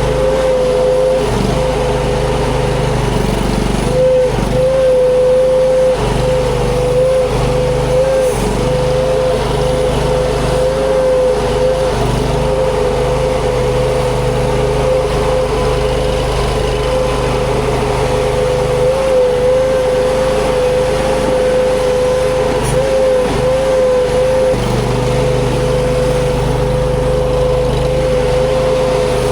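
Huayee LHY480 mini skid steer running steadily at working speed, a continuous engine drone with a whine that wavers slightly in pitch.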